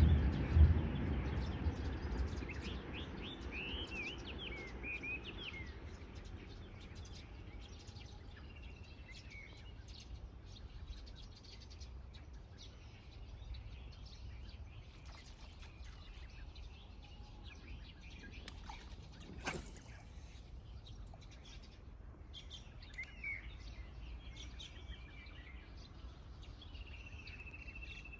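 Small birds chirping in short scattered calls, over a low rumble that fades away in the first few seconds. A single sharp click comes about two-thirds of the way through.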